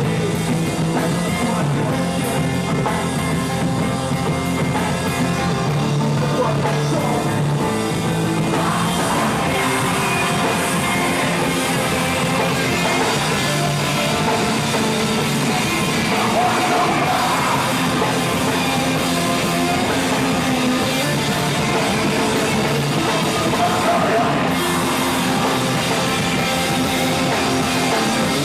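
A live rock band playing loud, with a drum kit. Vocals come in over the band about eight seconds in.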